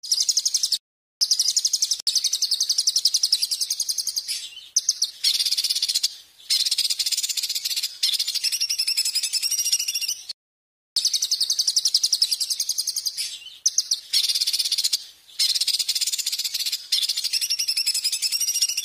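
A small songbird's rapid, high-pitched trilling song, in long runs of fast repeated notes broken by short pauses. The same passage plays twice, as a looped masteran (bird-training) recording.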